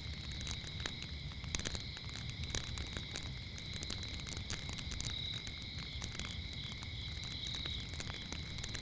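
Wood fire crackling with scattered sharp pops, over a steady high chorus of chirping crickets that pulses briefly near the end, and a low steady rumble underneath.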